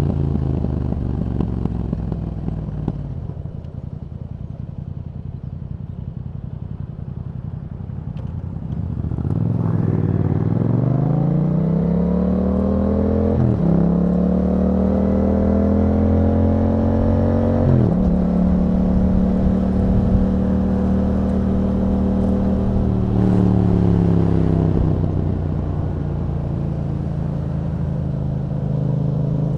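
A 2021 Yamaha MT-07's parallel-twin engine through an Akrapovic exhaust with a dB-killer fitted. The revs fall as it slows and stay low for several seconds. Then it accelerates through two quick upshifts about four seconds apart, holds a steady pace, and eases off near the end.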